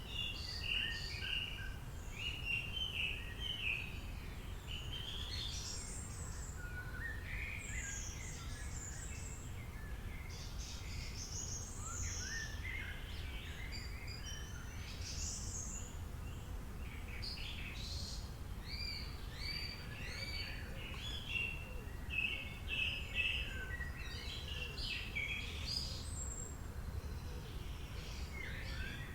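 A chorus of songbirds chirping and singing, many short calls and quick rising and falling notes overlapping, over a steady low background hum.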